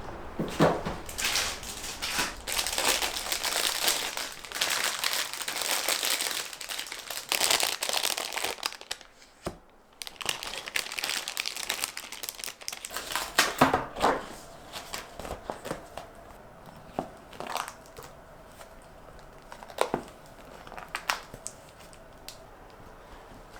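Crinkling and crumpling of wrapping being handled: dense crinkling for the first dozen seconds or so, then scattered single crinkles and ticks.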